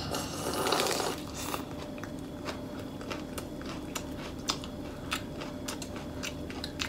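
Close-miked eating: a bite into a fresh lettuce-and-herb wrap holding beef rolled in betel leaf, crunching for about the first second, then chewing with scattered wet mouth clicks.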